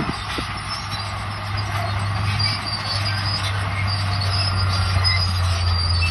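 Crawler bulldozer running steadily, with a low diesel engine drone and high metallic squealing from its steel tracks.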